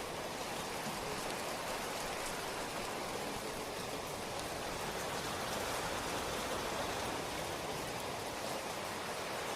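Steady rain falling, an even hiss of many drops with a few faint single drop ticks.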